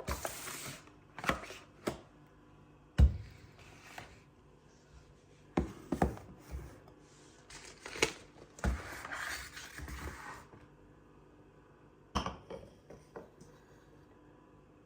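Small objects being handled: a series of scattered clicks and knocks, the loudest about three seconds in, with brief rustling near the start and again about nine seconds in.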